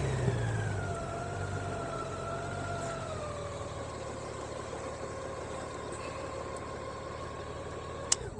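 Motorcycle engine slowing, its pitch falling over the first few seconds and then settling to a steady run, with one sharp click near the end.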